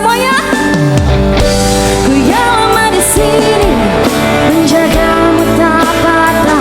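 A live band playing a pop song, with a singer's voice over guitar and bass; a low note slides down about a second in.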